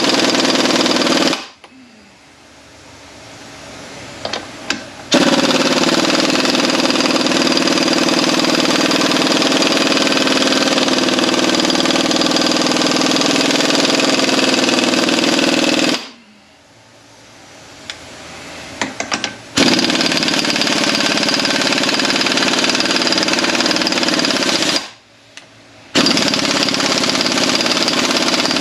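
Impact wrench hammering on a tight, thread-locked nut on a Mercedes 722.9 automatic transmission, in long runs broken by three short pauses with a few clicks in them. The nut is not coming loose.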